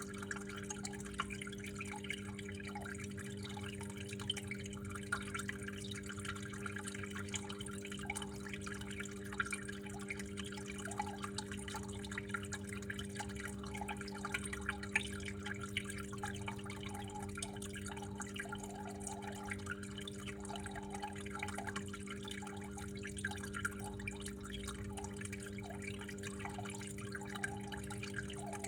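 Water trickling and dripping in an uneven patter, over a steady low hum.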